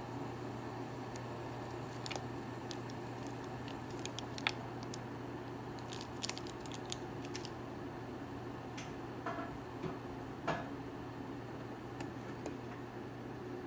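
Steady low hum of room noise with scattered light clicks and taps, a few at a time, as of small objects being handled.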